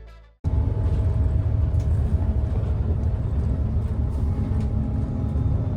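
Background music stops, and about half a second in a steady low rumble with a faint steady hum starts, like a vehicle running.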